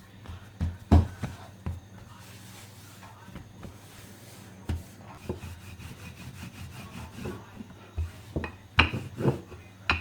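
Dough being worked by hand on a surface: soft rubbing with scattered knocks, loudest in clusters about a second in and near the end.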